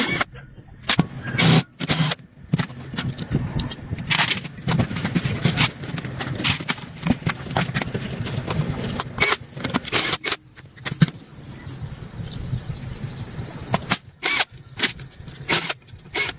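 Irregular sharp knocks and clicks, a dozen or so spread unevenly, over a low rumble and a faint steady high whine.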